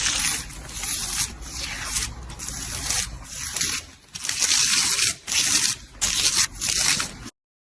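A hissing rubbing sound, steady at first, then in repeated strokes less than a second apart, which cuts off abruptly near the end.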